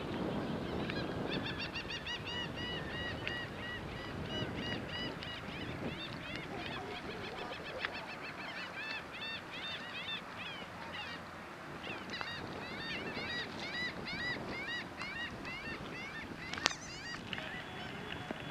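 A flock of birds calling, many short arched calls overlapping and repeating, with a single sharp click near the end.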